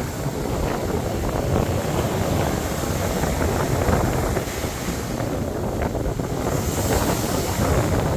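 Sea waves breaking and washing on the shore, with wind buffeting the microphone throughout. A wave rushes in more loudly near the end.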